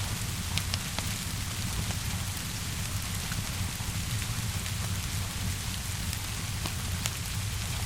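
Steady rainfall with a low rumble under it, mixed with scattered sharp pops and crackles of a fire.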